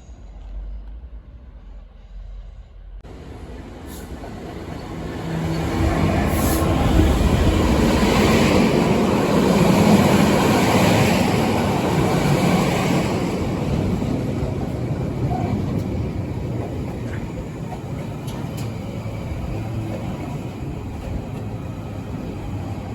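A train running through the station: its rumble and hiss build from about three seconds in, are loudest in the middle, then ease off to a steadier running sound.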